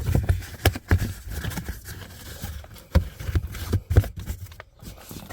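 Irregular knocks and thumps with scraping and rustling in between, as a car's floor carpet is pushed and fitted back into place.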